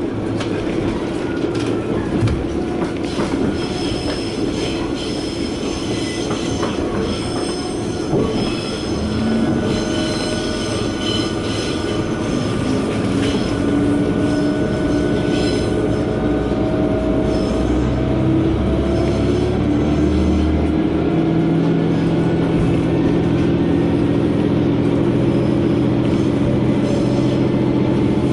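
Diesel railcar running on the Sanko Line. The wheels squeal against the rails through the first half, as on a curve. Then the engine note rises steadily as it accelerates, and settles into a steady drone for the last several seconds.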